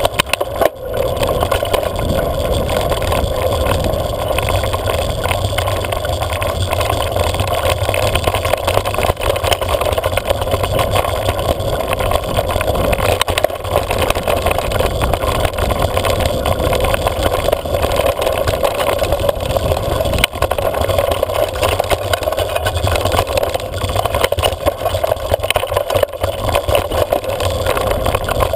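Steady rushing wind and road noise on a camera carried on a moving bike, with a constant low rumble.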